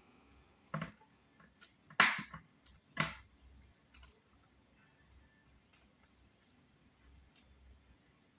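A high-pitched insect trill pulsing rapidly and steadily, with three short sharp sounds about one, two and three seconds in, the middle one loudest.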